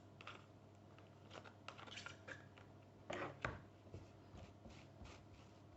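Faint handling sounds of spread being put on bread with a knife: soft scrapes and small clicks, with two louder knocks a little past three seconds in.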